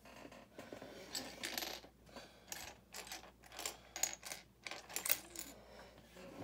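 Loose LEGO plastic pieces clattering and clicking as they are rummaged through by hand: a busy run of small hard clicks and rattles, the sharpest about four and five seconds in.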